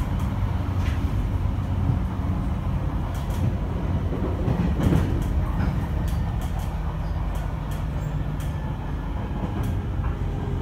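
Running sound heard inside the car of a JR East E721 series 1000 electric multiple unit under way. A steady low rumble of wheels on rail carries a steady hum from the Mitsubishi IGBT-VVVF traction equipment, with sharp clicks now and then.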